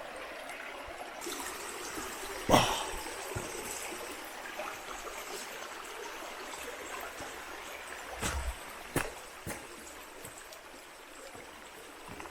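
Steady hiss of water, a creek running or rain falling, with a few sharp knocks over it. The loudest knock comes about two and a half seconds in, and a small cluster follows near the end.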